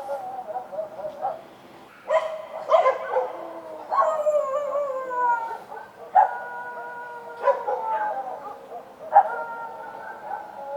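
Street dogs barking and howling at night. A few short barks come about two seconds in, then three long howls, each starting sharply and sliding down in pitch.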